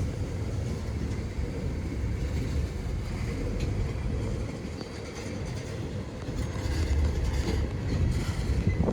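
Freight train cars rolling past, a steady rumble of steel wheels on the rails with faint scattered clicks.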